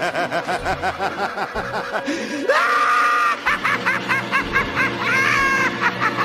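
Rapid giggling in quick pitched bursts, then high-pitched squeals and stuttering cries from about two and a half seconds in, over music.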